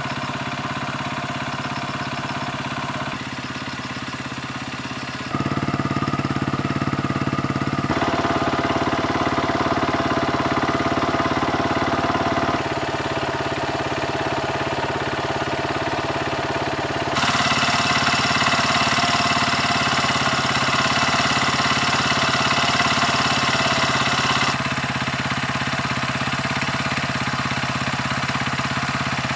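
Kymco KCR125 motorcycle engine running steadily, mostly at idle and held revs. Its pitch and loudness change abruptly several times, louder from about five seconds in and loudest for a stretch past the middle.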